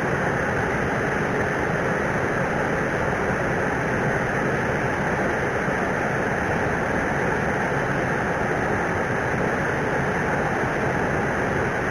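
Steady rushing of flowing river water, unchanging throughout.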